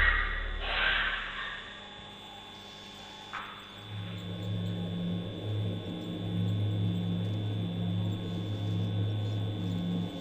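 A low, steady hum that sets in about four seconds in.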